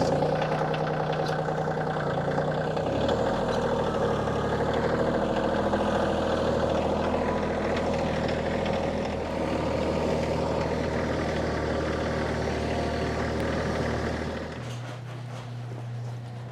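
Kioti CK2610 compact diesel tractor engine running steadily at working throttle, then dropping back to a quieter idle about two seconds before the end.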